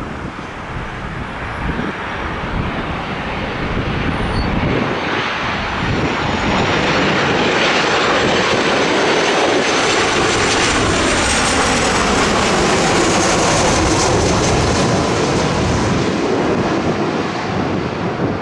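Jet airliner passing low overhead: its engine roar builds for several seconds, holds loud, and the engine whine sweeps down in pitch as it goes by before it begins to fade.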